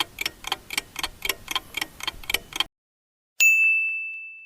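Clock-ticking countdown sound effect, about three ticks a second, that stops about two and a half seconds in; after a brief silence a single bell ding rings out and fades, marking time up for answering the question.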